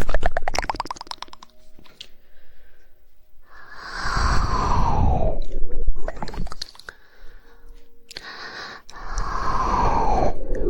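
Close-miked ASMR mouth sounds: a rapid run of 'woodpecker' tongue clicks at the start, then two longer mouth sounds, each falling in pitch, with a few scattered clicks between.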